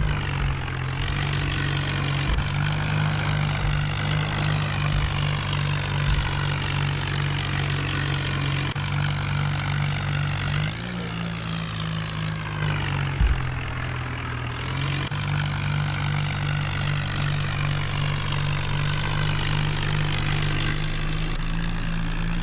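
New Holland tractor's diesel engine running steadily while hauling two loaded trailers; its pitch rises slightly about halfway through, then settles back a few seconds later.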